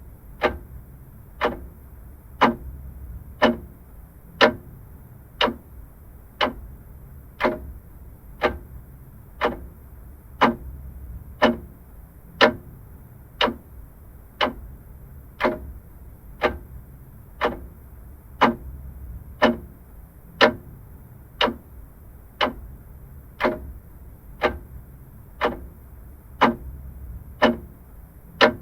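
Vintage clock ticking steadily, a sharp tick about once a second.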